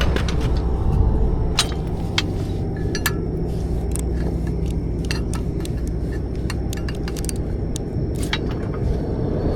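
An engine idling steadily under many scattered sharp metallic clicks and clinks, like chain links or hardware being handled.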